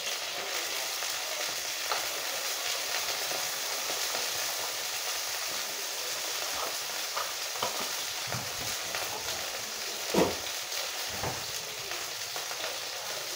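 Food frying in a pot of hot oil on the stove, a steady sizzle, with a few scattered knocks, the loudest about ten seconds in.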